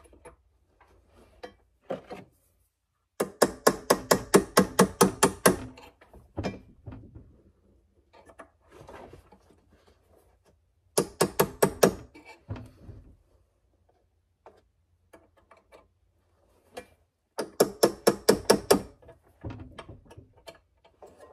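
Three bursts of rapid knocking, about six sharp strokes a second, with a few single clicks between them, as an LED headlight bulb is worked into the plastic headlight housing.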